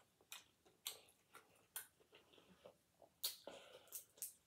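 Faint chewing and lip smacking: a string of short, irregular mouth clicks.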